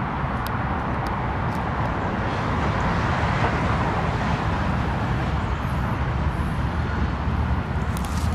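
Steady road traffic noise, a continuous wash of passing vehicles that swells a little about three seconds in.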